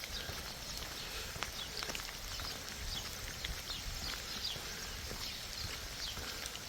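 Steady light rain, with scattered small ticks of drops and short high chirps.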